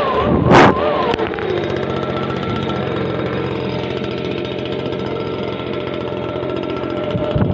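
Stihl BG56 two-stroke leaf blower engine running steadily, with a brief loud whoosh about half a second in.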